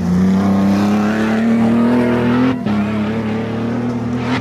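Off-road race 4x4's engine revving hard under load as it climbs a dirt mound, its pitch rising slowly. There is a brief dip about two and a half seconds in, then it pulls again.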